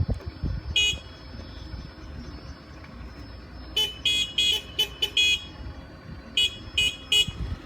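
Car horn tooting in short beeps: one, then a quick run of about six, then three more near the end, over the low rumble of passing road traffic.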